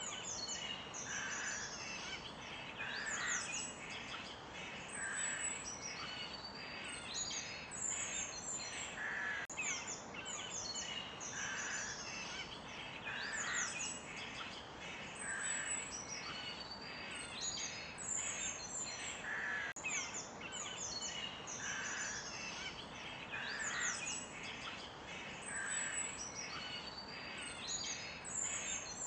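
Forest birdsong: many birds chirping and trilling at once over a faint steady hiss, with lower calls every couple of seconds. The same stretch of birdsong repeats about every ten seconds, as a loop.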